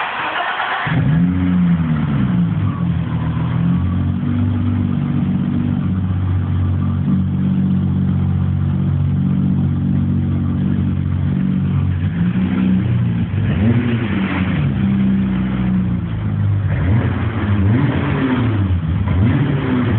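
BMW E30 325i's M20B25 2.5-litre straight-six, run without its rear silencer, catching about a second in after a brief burst of cranking, then idling. The throttle is blipped a few times, with quick rises and falls in revs in the second half.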